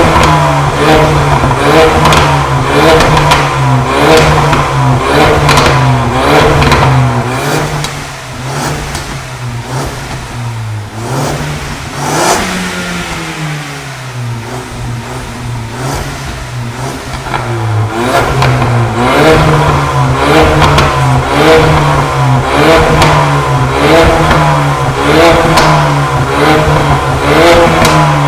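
Ford Mustang EcoBoost's turbocharged 2.3-litre four-cylinder being revved through a full stainless-steel exhaust with a custom downpipe, in quick repeated blips about one a second. About eight seconds in, it settles quieter for some ten seconds, with one sharp rev partway through, then the blipping resumes.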